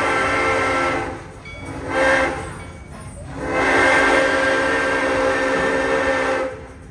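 Train whistle sounding a chord of several pitches in three blasts: one that cuts off about a second in, a short blast, then a long blast lasting about three seconds. There is a low rumble of the running train underneath.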